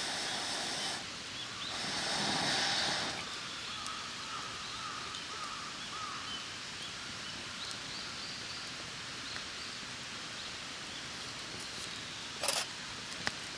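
Outdoor background noise with a run of faint, repeated bird chirps a few seconds in, and a short rustle near the end.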